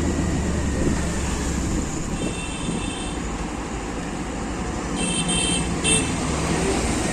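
Road traffic noise heard from a moving motorbike, with a vehicle horn beeping about two seconds in, again about five seconds in, and a short toot just after.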